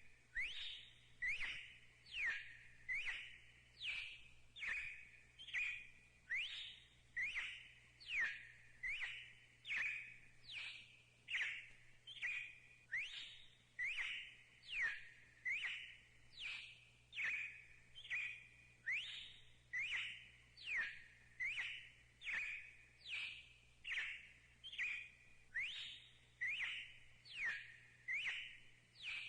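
Red-cowled cardinal calling: one short note that sweeps down and then holds, repeated steadily a little more than once a second.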